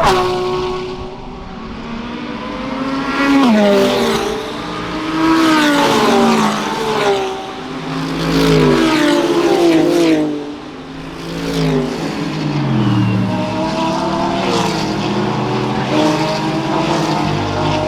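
GT3 race cars' engines at racing speed passing one after another, the engine notes climbing and dropping several times as the cars pass and change gear.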